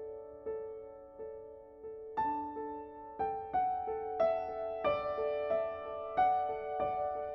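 Background piano music: a quiet repeating figure of notes roughly every three-quarters of a second, with louder, higher melody notes coming in about two seconds in.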